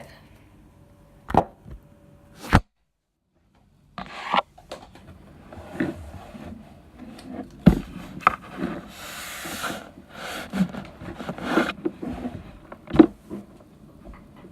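Handling noises: two sharp knocks, then, after a short gap of dead silence, scattered knocks, rubbing and scraping, with a longer rustling hiss a little past the middle.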